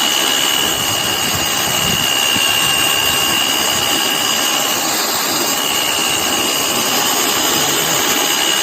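Electric power mixer running steadily under load with a constant high whine, stirring a cementitious waterproofing mix.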